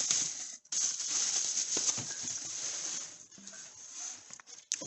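Plastic packaging rustling and crinkling as a motorized bicycle kit part is unwrapped and handled, with small knocks mixed in. It thins out to a few scattered clicks and taps after about three seconds.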